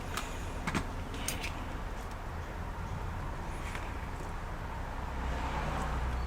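Steady low electrical hum and hiss of workbench room noise, with a few faint light clicks in the first second or so from small laptop parts being handled.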